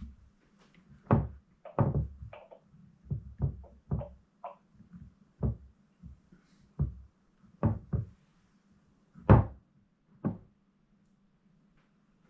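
Irregular knocks and clunks of engine parts and tools being handled and set down on a table during reassembly, about fifteen in all, the loudest a little over nine seconds in, over a faint steady hum.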